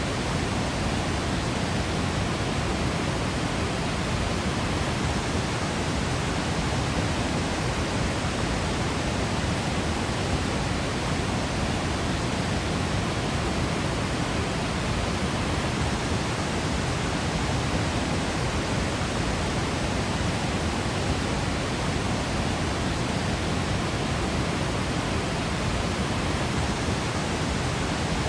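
Waterfall: a steady, even rush of falling water, full in the low end, with no change in level.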